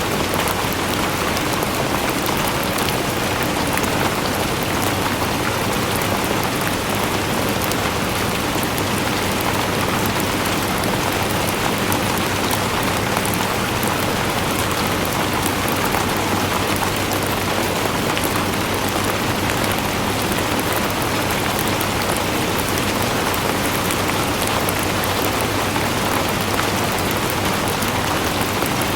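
Steady rain falling on a surface, a constant hiss with many small drop patters.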